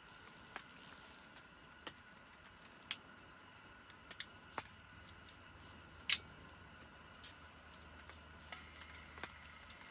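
Scattered single taps at irregular intervals, one louder than the rest about six seconds in: water drops falling after a rainstorm.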